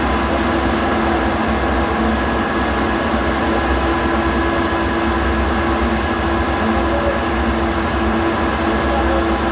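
A steady, loud machine drone with an even hum and low rumble that does not change.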